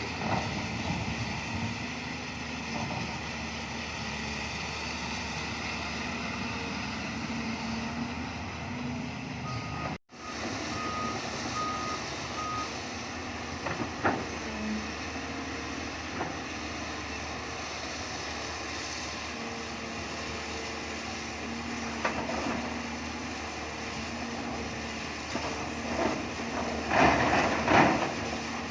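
Hyundai hydraulic excavator's diesel engine running steadily. About a third of the way in a travel or reversing alarm gives four short beeps, and near the end there is a cluster of loud knocks and scraping.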